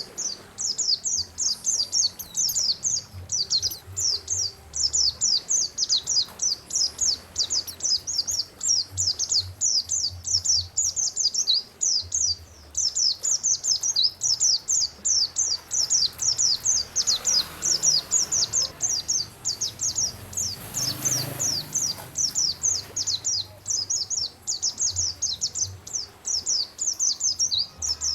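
A songbird singing a fast, unbroken string of high chirps, several a second, each note falling in pitch, as on a masteran recording played for cage birds to learn their song.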